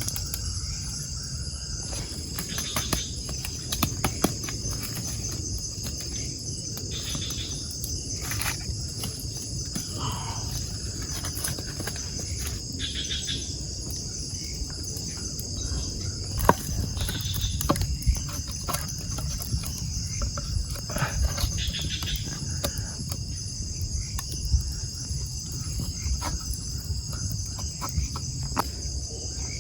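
Steady high chorus of crickets or other night insects, with scattered light ticks and taps and a low rumble underneath.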